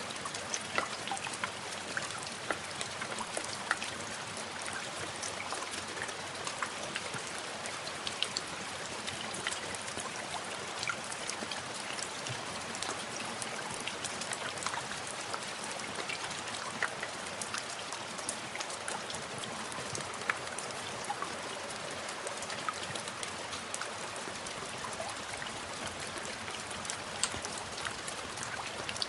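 Steady rain falling, with many individual drops ticking sharply on a surface over a constant hiss.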